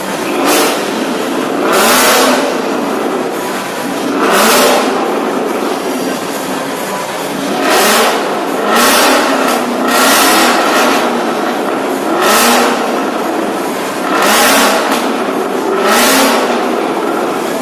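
Ford Mustang GT's 5.0-litre V8 through a straight-pipe exhaust, revved in short blips about every one to two seconds and dropping back between them.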